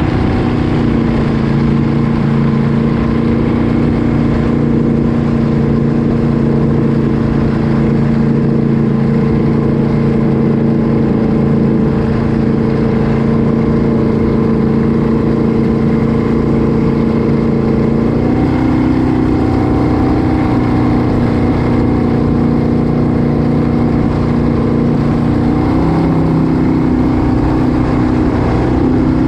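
Engine running steadily and close at constant speed, its pitch stepping up slightly about two-thirds of the way in and again near the end.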